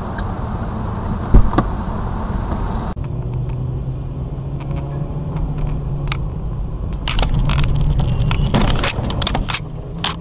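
Car engine and road noise as heard through a dashcam, with one sharp knock about a second and a half in. After an abrupt cut about three seconds in, a steady low engine hum continues with scattered clicks and rattles.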